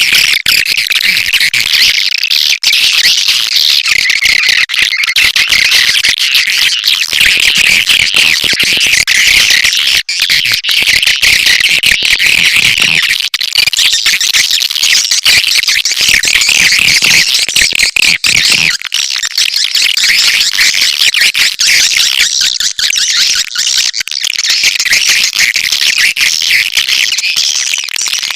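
Dense, continuous twittering chirps of swiftlets, a swiftlet lure-call recording of the kind played to draw the birds into a nesting house.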